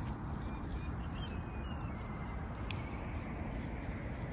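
Small birds chirping in short, high, whistled notes, mostly in the first half, over a steady low rumble of outdoor background noise.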